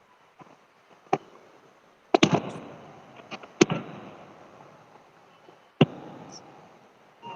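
Fireworks going off: a handful of sharp bangs spread over several seconds, the bigger ones trailing off over a second or two.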